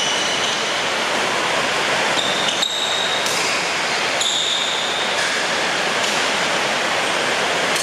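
Heavy rain pouring down, a loud steady hiss, with a few short high squeaks over it.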